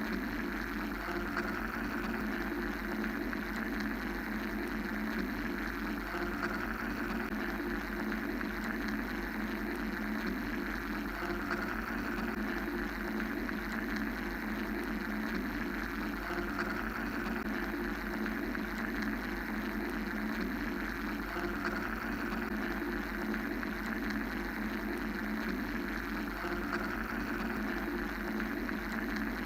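Steady mechanical white-noise drone, a low rumble under a mid hum and a hiss; the upper hiss swells and fades about every five seconds.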